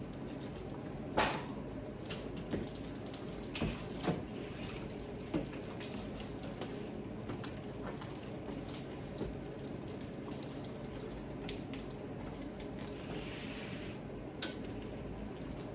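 Scattered sharp clicks and knocks of plastic being handled, most of them in the first few seconds, over a steady low hum.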